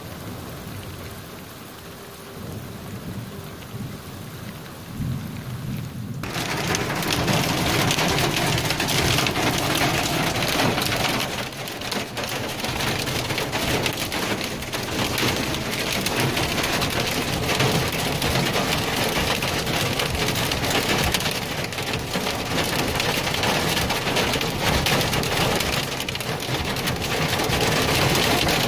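Torrential rain heard from inside a vehicle, drumming on it in a dense, steady roar, with a low rumble of thunder underneath. The opening seconds are quieter, then about six seconds in the downpour cuts in suddenly at full loudness.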